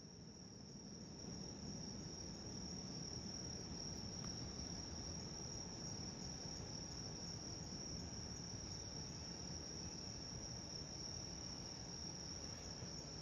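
Crickets chirring in a steady, continuous high trill over faint low background rumble.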